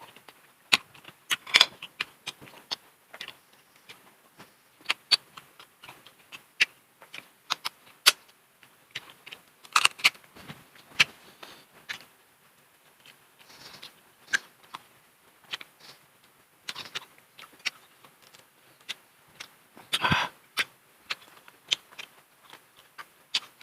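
Close-miked eating of sauced crab and shrimp: irregular wet clicks and smacks of chewing, with small cracks and rustles of shell handling, and a couple of longer noisy bursts about ten seconds in and near twenty seconds.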